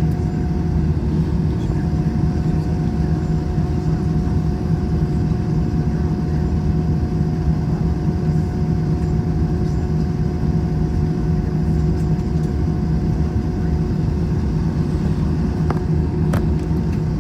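Steady cabin drone of an Airbus A321 airliner's jet engines and airflow heard from inside the passenger cabin, with a constant hum over the low rumble.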